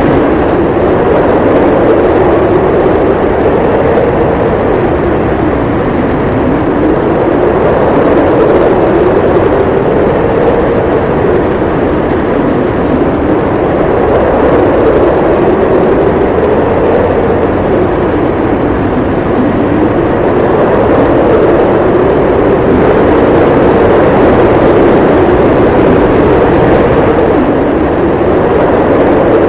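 Howling blizzard wind with blowing snow: a loud, steady rush whose moaning pitch slowly rises and falls in long swells.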